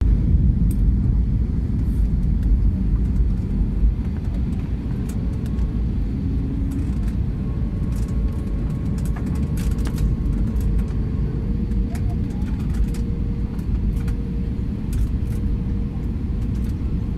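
Steady low rumble of a passenger airliner heard from inside the cabin during landing, with a faint steady hum and a few light clicks and rattles over it.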